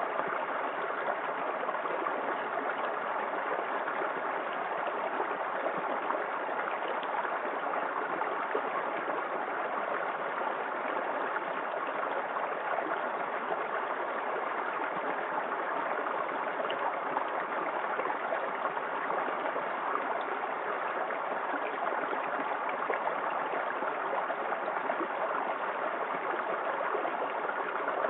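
A small waterfall in a forest creek, water splashing and rushing in a steady, unbroken wash.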